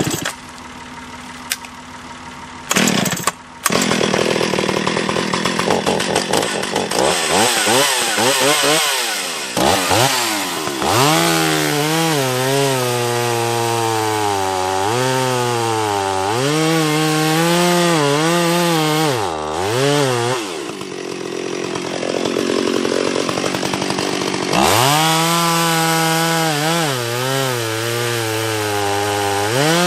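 Gasoline chainsaw coming to life about three seconds in, then running at full throttle and cutting into a tree trunk. Its pitch sags repeatedly as the chain bites under load and climbs back up when the load eases.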